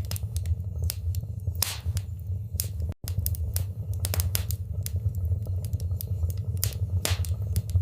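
Wood fire in a fireplace crackling: many sharp pops and snaps, a few longer hissing ones, over a steady low rumble of the flames. The sound cuts out for an instant about three seconds in.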